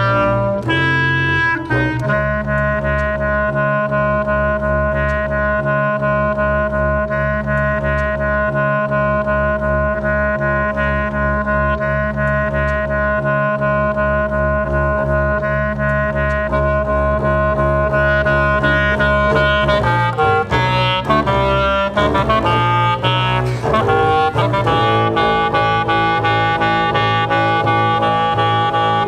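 A clarinet and a double bass playing long held notes in an experimental contemporary piece, over a dense low drone. About twenty seconds in, the held notes break into a few seconds of short, shifting sounds, then new long notes start.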